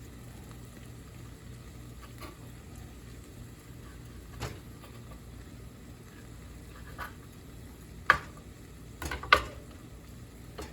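Chicken strips frying in a pan with a steady low sizzle, broken by a handful of sharp utensil clinks, the two loudest about eight and nine seconds in.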